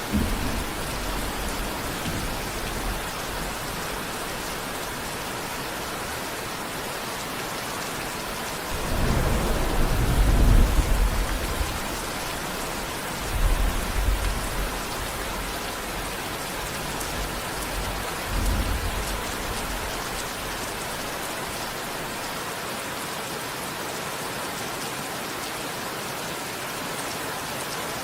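Steady heavy rain with rolls of thunder: a long deep rumble from about nine to twelve seconds in, then two shorter rumbles at around fourteen and eighteen seconds.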